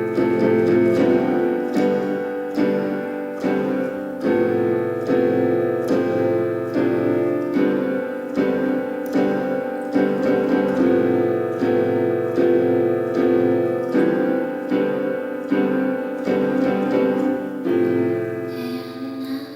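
Piano playing an instrumental passage of sustained chords struck in an even, regular pulse, without singing; it fades away near the end.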